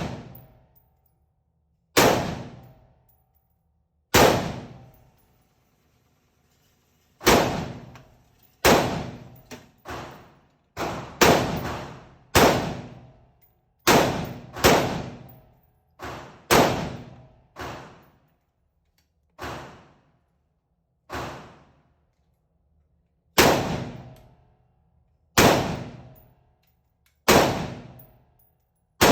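AR-15 rifle fired shot by shot in semi-automatic, about eighteen sharp shots at uneven intervals of half a second to two seconds. Each shot has a short ringing decay, and a few are quieter than the rest.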